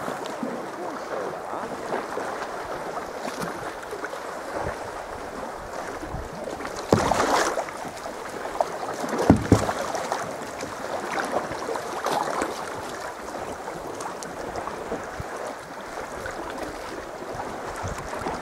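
Water sloshing and lapping around a sea kayak as it is paddled, with two louder splashes: one about seven seconds in and another about two seconds later.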